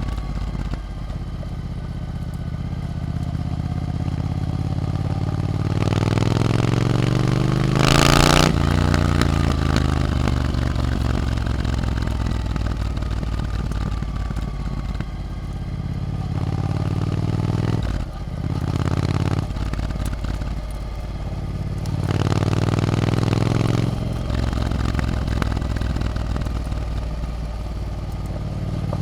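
Triumph Scrambler 900's parallel-twin engine through an Arrow aftermarket exhaust, heard on the move: it revs up under acceleration, drops in pitch at gear changes about eight and eighteen seconds in, and pulls up again near the end. A brief loud rush of noise comes with the first change.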